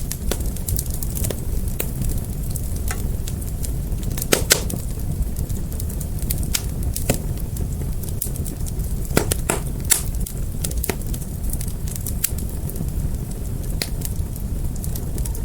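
Fire burning with a steady low rumble and irregular sharp crackles and pops, the loudest a pair about four seconds in and another near ten seconds.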